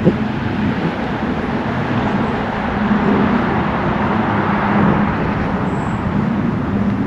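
Road traffic running past, a steady rumble of engines and tyres that swells as a vehicle goes by about two-thirds of the way through.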